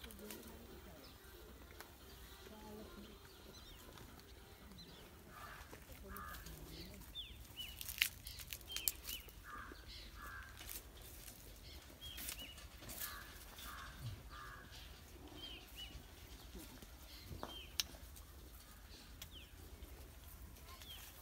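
Birds chirping: short, falling high chirps repeat through the middle of the stretch, with lower calls in twos and threes among them. A few sharp clicks come in between, the loudest about eight seconds in.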